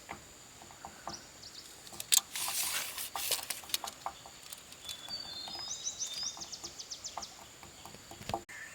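A bird calls a quick run of high chirps about five seconds in, over scattered light clicks and knocks and a brief rustling hiss about two seconds in.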